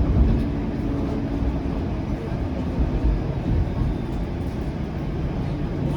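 Bombardier Flexity Outlook streetcar in motion, heard from inside the car: a steady low rumble of wheels on rail, with a faint motor whine that fades out about two seconds in.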